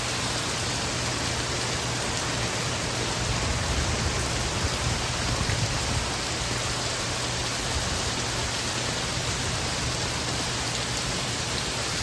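Heavy rain falling during a flash flood, a steady even hiss, with a low rumble that swells a little about four to six seconds in.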